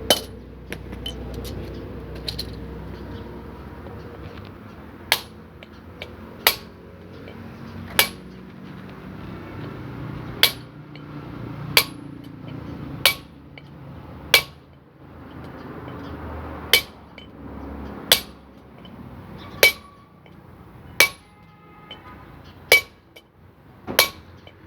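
Hammer blows, metal on metal with a short ring, falling about every second and a half with some quieter clinks between them. A bearing is being driven onto a part of a truck's rear differential.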